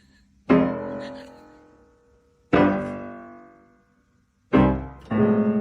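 Piano chords struck one at a time, each ringing out and fading, about two seconds apart, then a quicker run of repeated notes near the end.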